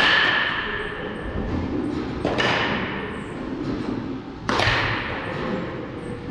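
Baseball batting practice: three hits of a bat on a ball, about two seconds apart, each a sharp crack with a ringing ping that fades over about a second.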